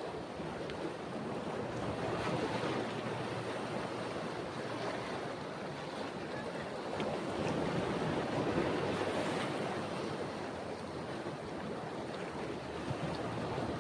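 Ocean surf washing onto a beach, a steady rush of water that swells louder twice, about two seconds in and again around eight seconds.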